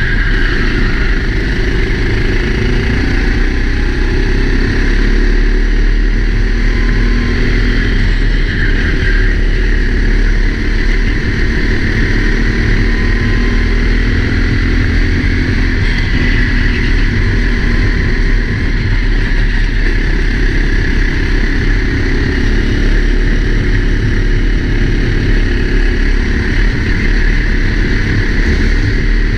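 Four-stroke racing kart engine running continuously under race load, its pitch rising and falling gently with a heavy low rumble underneath.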